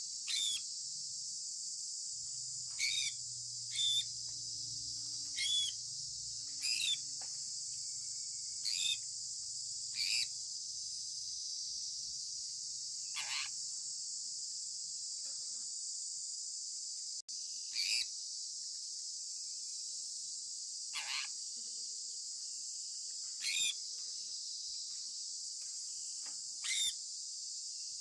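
Sun conure parrot giving short chirps, each falling in pitch, about a dozen at intervals of one to three seconds over a steady high hiss.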